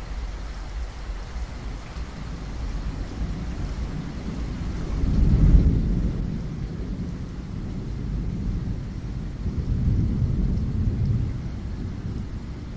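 Steady rain with thunder rumbling low, swelling loudest about five seconds in and again around ten seconds in.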